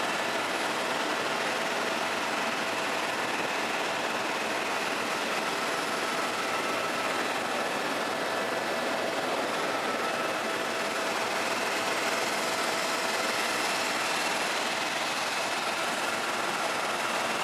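Helicopter running steadily in flight: an even rush of engine and rotor noise with a faint steady whine.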